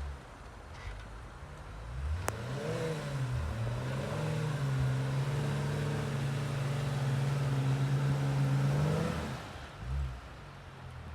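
Jeep engine revving up about two seconds in, held at high revs at a steady pitch for about five seconds, then dropping back near the end: working hard under load in deep snow. A sharp click sounds once just as it revs up.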